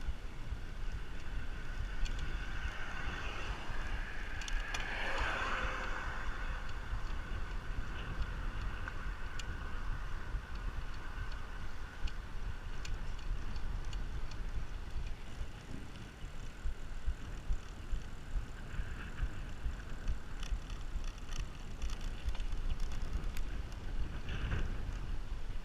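Wind buffeting the microphone and road noise while riding a bicycle, a steady rumble with scattered faint ticks. About five seconds in, a brief whine falls in pitch.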